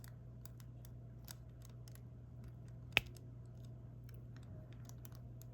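Diamond painting pen picking up and tapping small resin drills onto the canvas: scattered light clicks and ticks, one sharper click about three seconds in, over a steady low hum.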